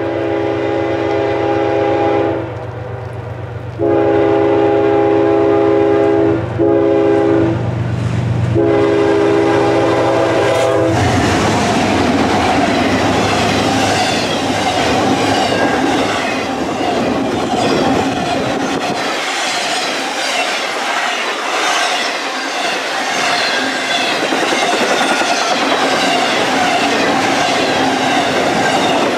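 Freight locomotive's chord horn sounding the grade-crossing signal, two long blasts, one short and one long, over the low hum of the diesel engines as the train reaches the crossing. About 11 seconds in, the horn stops and the double-stack intermodal container cars roll past with steady wheel clatter and rattling.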